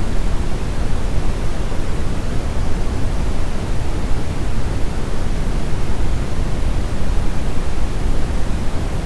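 Brown noise: a steady, deep hiss with most of its weight in the low end.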